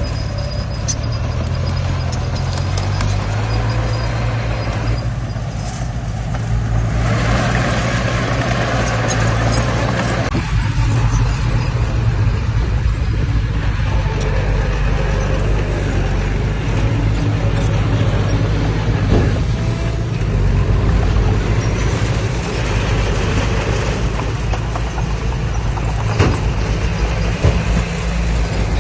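Heavy diesel earthmoving machinery running steadily. The engine's pitch shifts about three seconds in, and a rushing hiss rises for a few seconds a little later.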